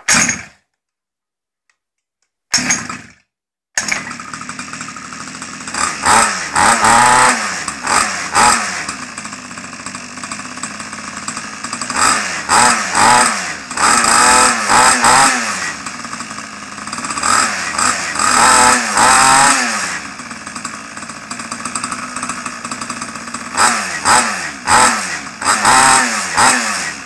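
Small Chinese-made minibike engine on its first start: a short burst that dies out, then it catches about four seconds in and keeps running. It is revved up and down several times, settling back to idle between revs.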